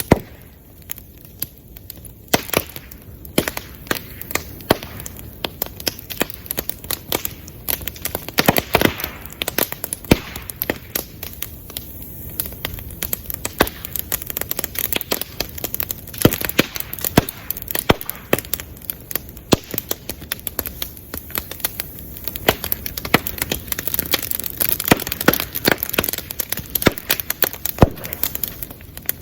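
Bamboo burning in an open bonfire: steady dense crackling with frequent loud, sharp pops as the bamboo stalks burst in the heat.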